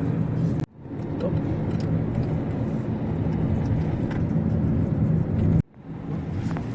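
Car engine and road noise inside the cabin while driving: a steady low rumble. It drops out abruptly twice, about a second in and near the end, fading back in each time.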